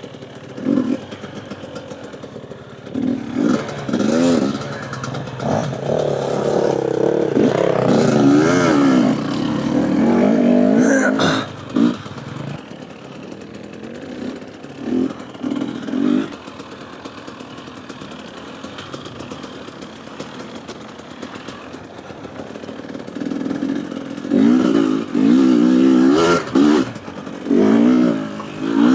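Husqvarna TE250 two-stroke enduro motorcycle engine revving in bursts as the bike is ridden over rough ground, its pitch rising and falling with the throttle, with a quieter stretch in the middle. A sharp clatter comes about eleven seconds in.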